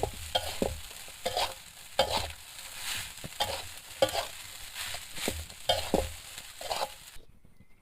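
Spatula scraping and stirring rice in a hot frying pan over a steady sizzle, in strokes about one or two a second, cut off abruptly near the end.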